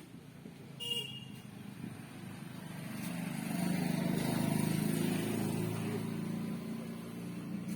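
A motor vehicle's engine running as it passes, growing louder to a peak about four seconds in and then easing off. A short high-pitched tone sounds about a second in.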